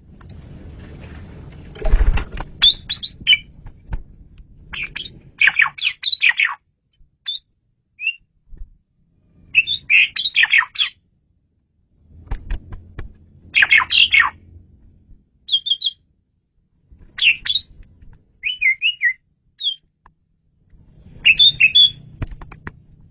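Male Asian pied starling (jalak suren) singing: loud, clear phrases of mixed whistles and harsh chattering notes, each a second or two long, separated by short pauses. A low rumbling noise sits under some of the phrases.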